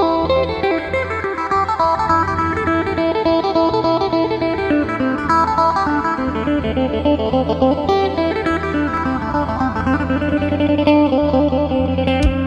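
Electric phin, the Isan plucked lute, playing a quick lively melody through a delay effect over a steady low bass drone.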